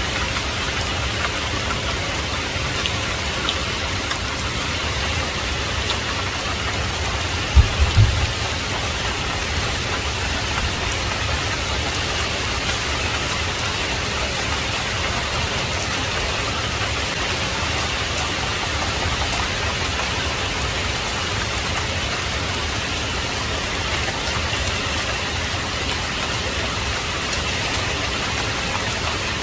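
Heavy rain falling steadily, an even hiss of drops. About eight seconds in comes a brief low thump of a few quick beats, the loudest moment.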